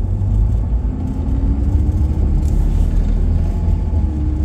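A car driving, heard from inside the cabin: a steady low rumble of engine and road noise, with a faint engine tone slowly rising in pitch.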